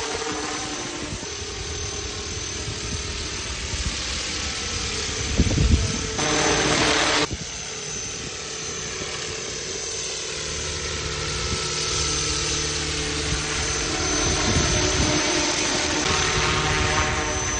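FL500 BO105 500-size radio-controlled scale helicopter flying: a steady high whine from the rotor head and drive, with the pitch drifting up and down as it moves. About six seconds in, a loud rushing noise lasts about a second.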